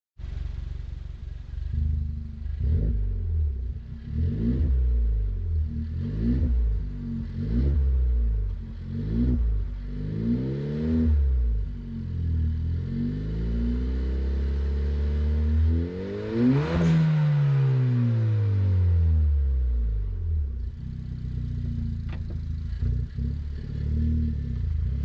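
Suzuki Swift Sport ZC33S's 1.4-litre turbocharged four-cylinder running through a GReddy Power Extreme R aftermarket exhaust, idling and blipped repeatedly in short revs about a second and a half apart. Past the middle there is one longer, higher rev that falls back to idle, and near the end there are a few more quick blips.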